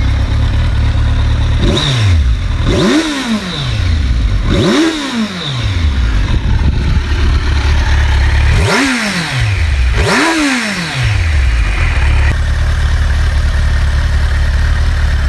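Motorcycle engine of about 250 cc idling, blipped up in revs and dropping back five times over the first eleven seconds or so, the first blip smaller, then settling to a steady idle.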